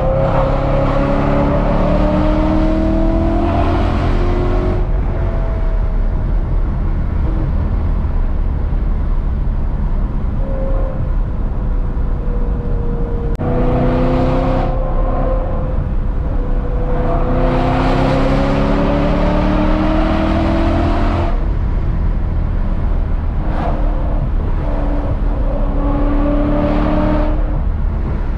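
BMW E92 M3's V8 with a full valved exhaust system, accelerating hard up through the revs four times, each pull rising in pitch and then dropping off as the throttle lifts or a gear changes, over steady road and wind rumble.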